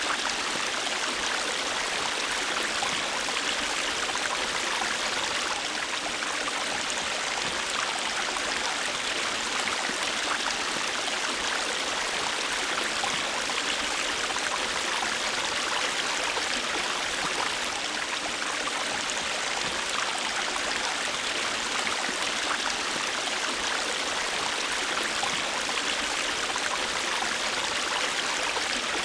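A river or stream rushing and babbling over rocks, a steady hiss of flowing water that holds even throughout.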